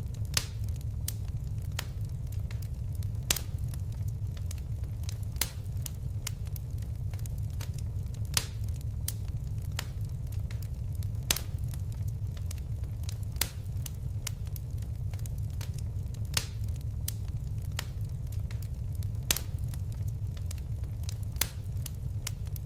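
Wood fire crackling: a steady low rumble of flames with frequent sharp pops, a louder snap every two or three seconds.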